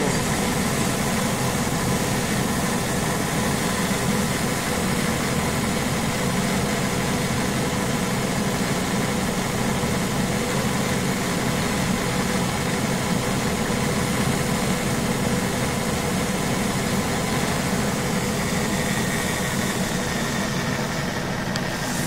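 A vehicle engine idling steadily, an unchanging hum with no revving.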